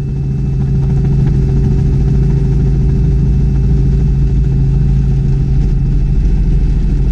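Robinson R44 Clipper II helicopter cabin noise: engine and rotor running in a loud, steady low drone with a strong low hum, swelling during the first second and then holding steady, during the final approach to landing.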